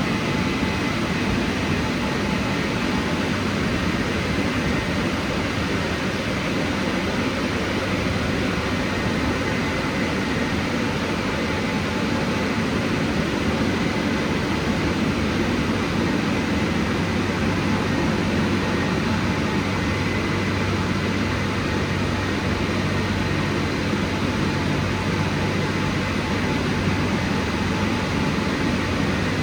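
Drying blowers of a WashTec rollover car wash, running steadily with a rushing air sound and a faint hum: the final drying stage of the wash programme.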